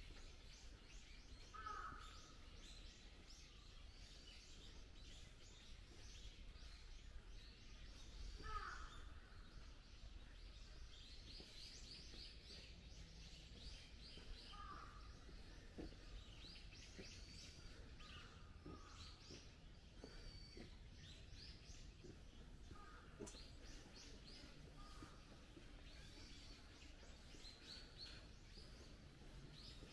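Faint birdsong: many short high chirps in quick series, with a few lower calls that fall in pitch every several seconds, over a steady low background rumble.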